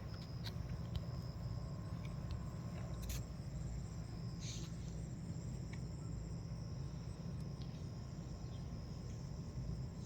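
Crickets trilling steadily in a high-pitched drone, over a low steady rumble.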